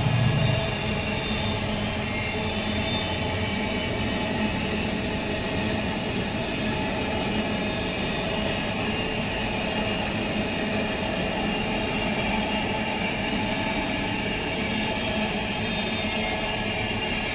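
Container freight train's wagons rolling steadily past on the tracks. A louder low engine sound from the locomotive drops away within the first second.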